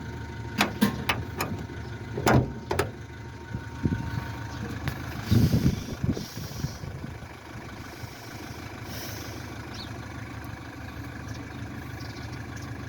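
A car engine idling with a steady low hum, with several sharp knocks and clunks in the first few seconds and another cluster about halfway through.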